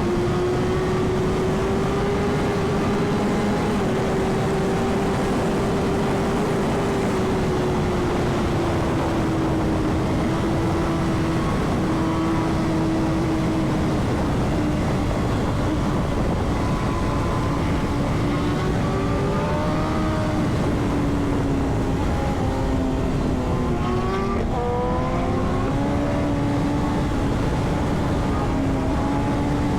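Superbike engine running at a steady cruise on the move, its pitch sinking slowly, then shifting briefly about three quarters of the way through and climbing a little, under heavy wind rush on the rider's microphone.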